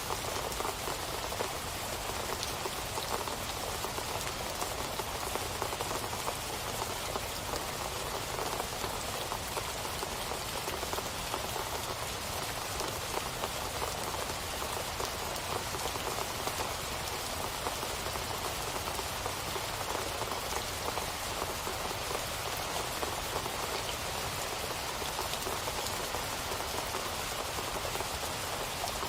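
Steady rain falling on a surface, a continuous even patter of many drops that neither swells nor fades.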